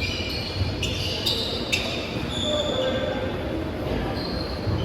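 Basketball being dribbled on a gym floor, with short high squeaks of shoes on the court and players' voices in an echoing hall.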